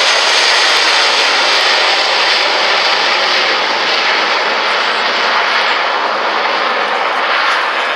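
Aircraft engines, a loud steady noise from a plane flying past, slowly fading as it moves away.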